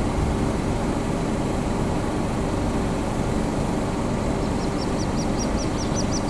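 A rapid series of thin, high peeping calls, about five a second, starts about two-thirds of the way in: little grebe chicks calling. Under it runs a steady low rumble of background noise.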